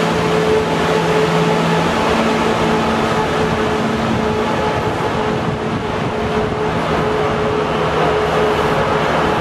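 Class 170 Turbostar diesel multiple unit pulling out and moving away, its underfloor diesel engines running under power. A steady drone with a few held tones fades over the first few seconds as the train draws off.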